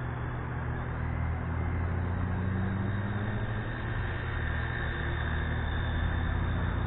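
WLToys V930 brushless flybarless RC helicopter in flight: a steady hum of its motor and rotors, shifting slightly in pitch as it manoeuvres.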